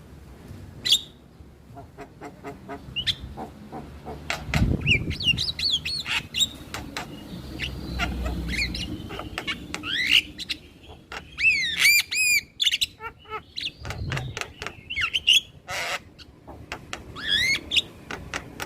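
Male Javan myna (jalak kebo) calling: a busy run of harsh squawks, sharp clicks and whistled notes that glide up and down, thickest about ten to thirteen seconds in.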